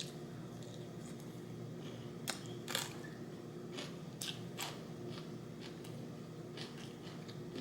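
Close-up eating sounds: irregular crisp crunches and chewing of food, over a steady low background hum.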